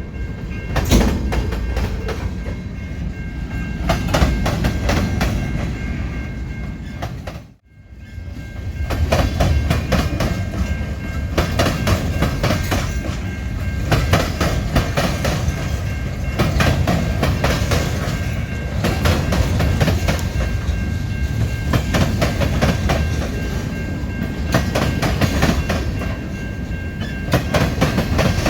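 Train cars rolling past close by, wheels clicking rapidly over the rail joints over a steady low rumble. The sound drops out briefly about seven and a half seconds in, then comes back.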